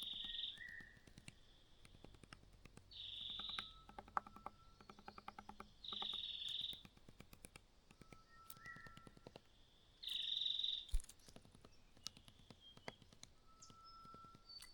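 A small bird's harsh, buzzy call, given four times about three to four seconds apart, with faint short whistled notes and soft clicking between the calls.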